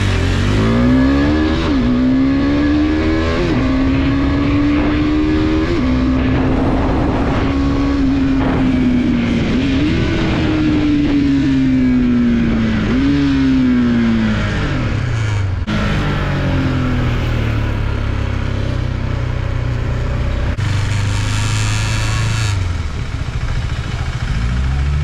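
KTM RC390's single-cylinder engine pulling up through the gears, its pitch climbing and dropping back at each of three upshifts in the first six seconds, then holding steady. It then slows with two downshifts, each a jump in pitch that falls away, about ten and thirteen seconds in, and runs low near idle towards the end, over a hiss of wind and road noise.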